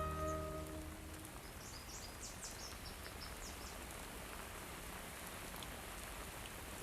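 Steady rain falling, a cartoon rain sound effect. A music chord fades out in the first second, and a run of short high chirps sounds about two to three seconds in.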